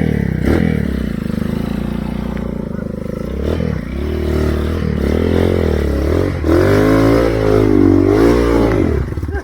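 Motorcycle engine being revved hard, its pitch swinging up and down several times and climbing highest in the second half, then cutting off suddenly at the end.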